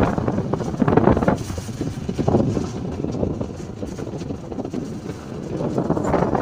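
Wind buffeting the microphone on a moving motorcycle, over the engine and road noise, rising and falling in gusts.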